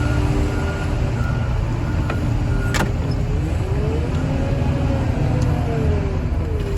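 Heavy machinery at a car crusher running steadily with a deep rumble, its pitch rising and falling back in the middle as it works under load. A short repeating beep sounds during the first half, and there is a single sharp click a little before halfway.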